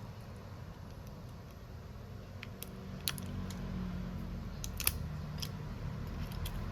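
A handful of short, sharp clicks and ticks, small tools touching a phone during a screen repair, over a low steady hum.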